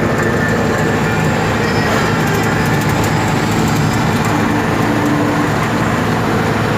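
Steady noise of a moving road vehicle: engine and tyre rumble running evenly.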